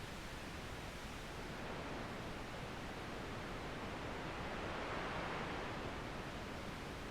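Steady rushing noise of wind and sea at the harbour, growing a little louder about five seconds in.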